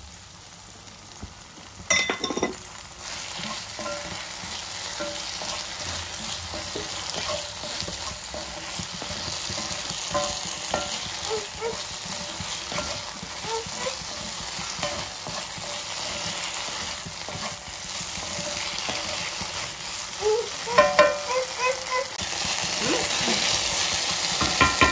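Egg Manchuria sizzling in a cast-iron skillet as its cornflour-slurry sauce cooks down, stirred with a metal spatula that scrapes and clinks against the pan. There is a knock about two seconds in and a run of clinks near the end, where the sizzle grows louder.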